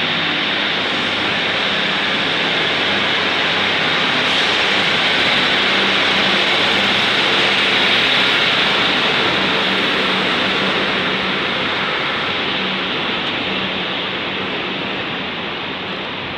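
Steady hiss and low hum of a modern multiple-unit train standing at the platform with its equipment running. It grows slightly louder toward the middle and then eases off.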